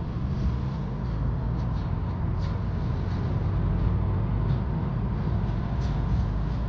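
Mercedes-AMG car driving at a steady pace on a wet road: a steady low rumble of engine and tyre noise, with a few faint light ticks now and then.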